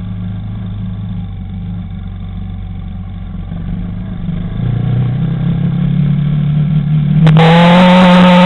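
Quad bike engine running at low revs, the revs climbing from about halfway through. Near the end the sound jumps suddenly to a much louder, higher-pitched engine note.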